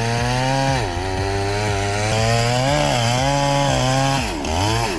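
Chainsaw running at high revs while cutting wood, its engine pitch sagging and recovering a few times as it loads up in the cut.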